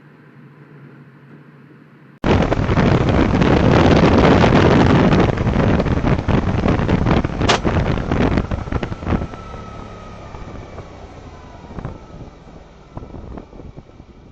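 Dashcam audio from a vehicle: a low steady hum, then suddenly a loud rushing noise with wind on the microphone. The noise eases off after several seconds, and a faint falling whine comes near the end.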